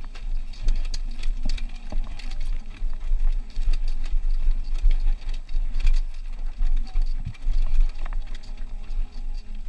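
Deep wind rumble on a helmet or bike-mounted action camera while riding a Honda CRF250R dirt bike, with frequent short knocks and rattles.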